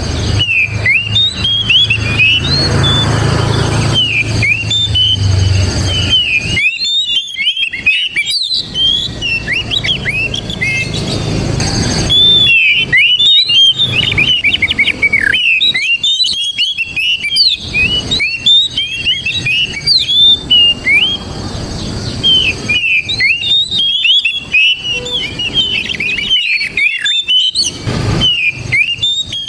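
Oriental magpie-robin singing a fast, varied run of whistles and chirps in several long bursts separated by short pauses. A low hum sits underneath during the first few seconds.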